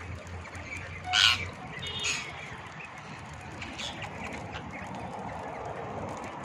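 Parrots calling: one loud, harsh squawk about a second in and a shorter one about a second later, with faint chirping from other birds.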